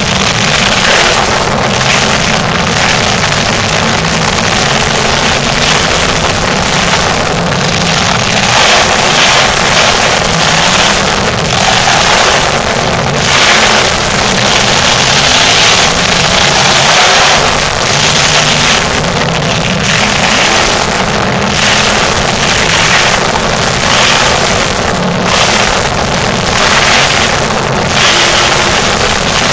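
Monster truck engine running hard and revving, loud throughout, with its pitch and level rising and falling.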